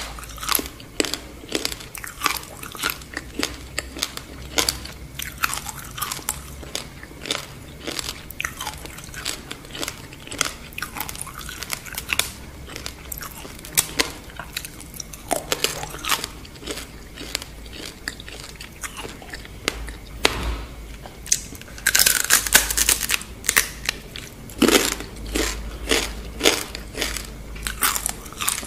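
Close-miked crunching and chewing of a deep-fried scorpion: a steady run of crisp crackling bites and chews, with a denser burst of crunching about three-quarters of the way through.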